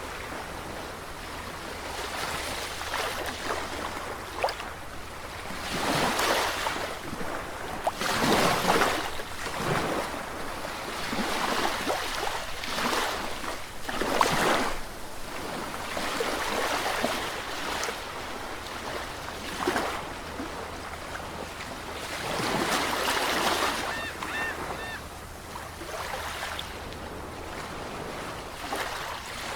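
Sea waves breaking, a steady hiss of surf that swells into a louder wash every few seconds.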